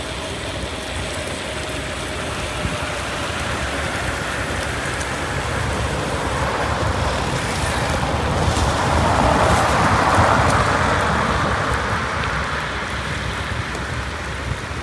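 Wind buffeting the microphone during a bicycle ride, a steady rushing noise with a low rumble, swelling louder a little past the middle and then easing off.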